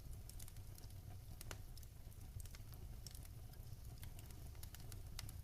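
Wood fire crackling in a fireplace, irregular sharp pops over a steady low rumble, with rain falling.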